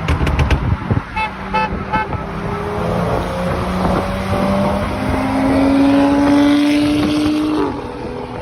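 Car engine accelerating through a gear, its pitch climbing steadily for several seconds before dropping suddenly at an upshift near the end. Early on there are a few sharp clicks and three short beeps.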